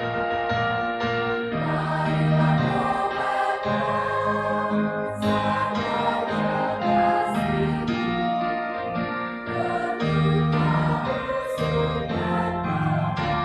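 Church choir singing a hymn, voices holding long sustained notes.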